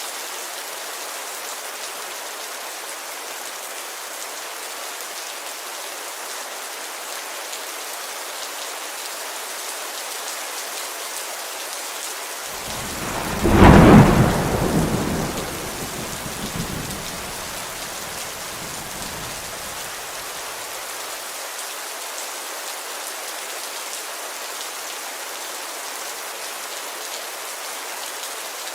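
Steady rain falling on a window, with a clap of thunder about halfway through that rumbles away over several seconds.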